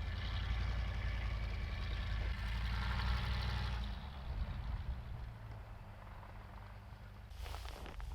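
Pickup truck engine running at low speed, with a steady low hum that drops to a fainter level about halfway through. A short rush of noise comes near the end.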